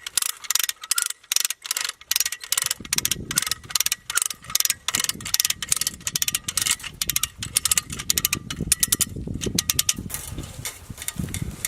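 Come-along ratchet clicking as its handle is worked, pulling barbed wire tight: a long run of sharp clicks, several a second, quickening in places.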